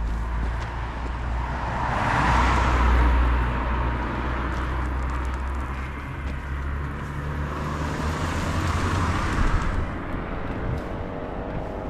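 Road traffic passing: two vehicles go by, the first swelling up about two seconds in and the second around eight seconds in, over a steady low rumble.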